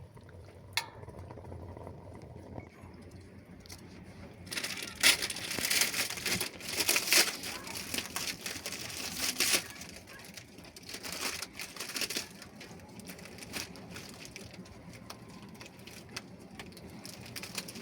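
Crinkling and rustling with scattered clicks, loudest in a dense stretch of a few seconds in the middle.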